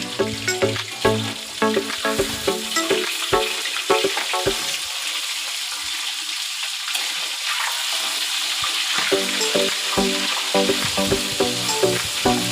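Food frying in a pan, a steady sizzle, under background music with a steady beat; for a few seconds in the middle the music thins out and the sizzle stands alone.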